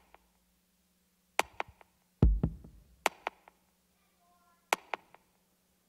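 Sparse electronic drum-machine hits in small clusters of two or three sharp strikes, with one deep boom a little over two seconds in, separated by quiet gaps over a faint steady hum.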